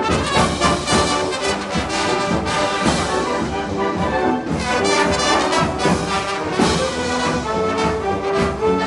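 A high school marching band playing live: brass led by trombones and trumpets, over a steady drum beat.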